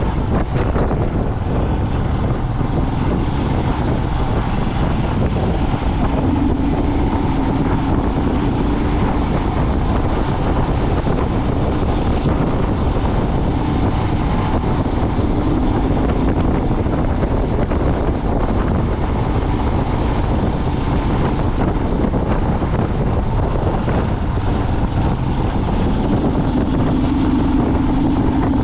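A moving vehicle with its engine running: steady road and wind noise, with a low engine hum that swells a few times as the engine works harder.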